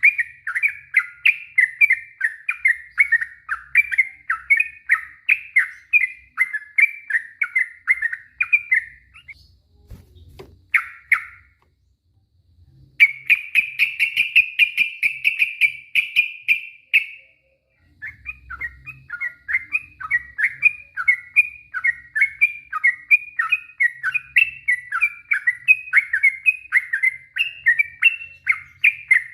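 Yellow-vented bulbul (trucuk) singing: a string of short chattering notes, about two to three a second. Near the middle it pauses, then sings a dense rapid trill for about four seconds before going back to the chattering notes.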